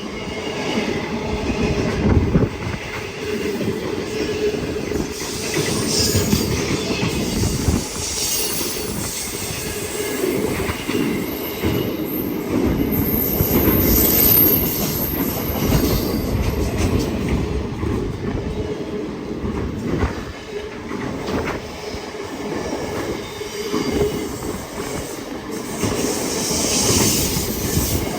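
Freight train wagons rolling past: a continuous rumble of wheels on rail with repeated short clicks, and a high wheel squeal around the middle.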